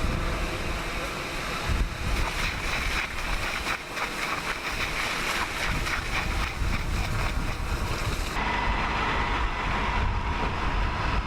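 Wind buffeting the microphone outdoors, a rough, uneven rumble. About eight seconds in the sound changes abruptly and a steady hum comes in.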